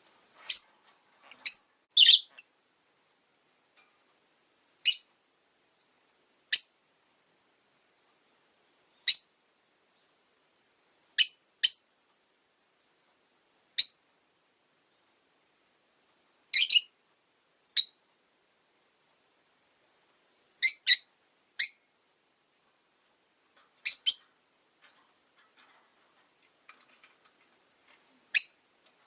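Rosy-faced lovebirds giving short, sharp, high chirps, singly or two or three in quick succession, at irregular intervals with quiet gaps between.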